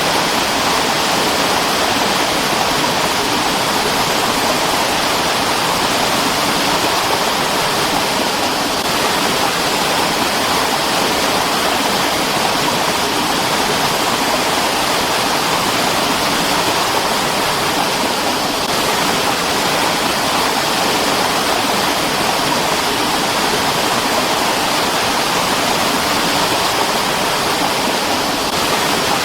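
Mountain stream, water rushing and splashing over rocks in a steady, unbroken rush.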